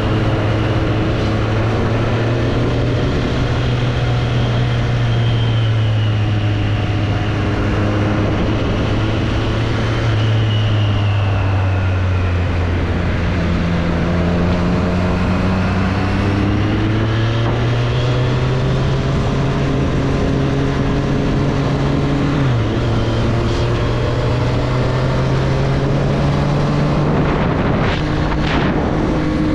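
2024 Triumph Street Triple's inline three-cylinder engine running at low city speed under wind noise. The revs ease off, then climb slowly, with a brief sharp dip about two-thirds through.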